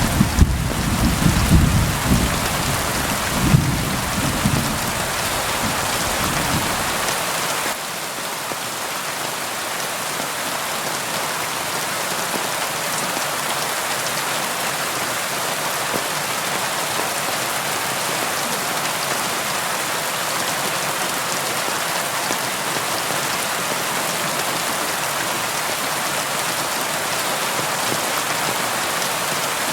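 Steady heavy rain, a dense even hiss, with a rolling rumble of thunder that swells a couple of times and dies away about seven seconds in, leaving the rain alone.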